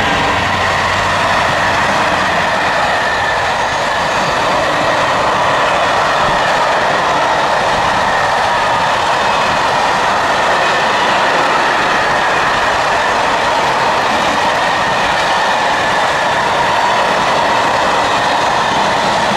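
A long train rolling past close by, its wheels running on the rails in a steady, unbroken rumble with a faint ringing tone; most likely the wagons of a freight train.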